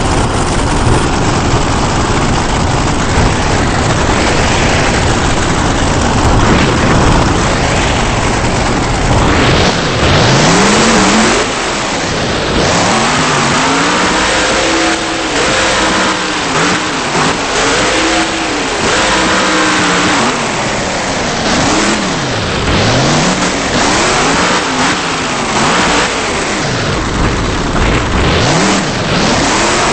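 Monster truck engine run hard, then revved up and down over and over, its pitch rising and falling with each blip of the throttle. The recording is heavily overdriven and distorted.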